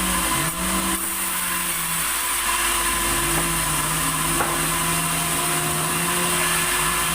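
Sawmill machinery cutting wood: a steady high sawing noise, under a motor hum that rises in pitch and levels off several times.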